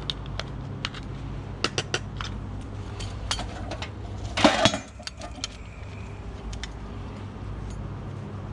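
Small scrap metal parts clinking and rattling as they are handled, with a louder clatter about four and a half seconds in, over a steady low hum.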